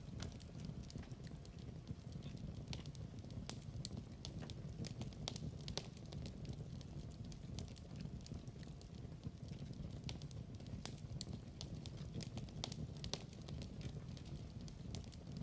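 Log fire crackling: a steady low rumble of flames with frequent small, irregular pops and snaps.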